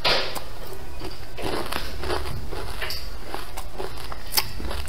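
Close-miked eating sounds of a person biting and chewing spicy braised fish: a string of irregular wet smacks and small crunches over a steady low hum.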